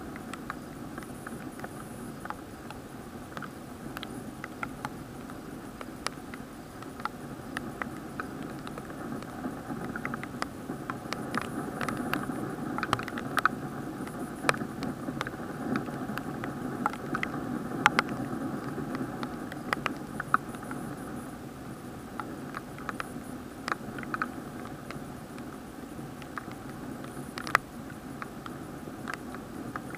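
Raindrops ticking irregularly on an action camera's plastic waterproof housing, over a steady muffled hiss. The ticks come thickest and loudest about halfway through.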